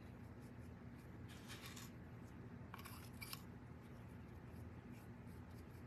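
Faint, short scratchy strokes of a paintbrush working paint onto a small wooden ornament, in two brief clusters, over a steady low electrical hum.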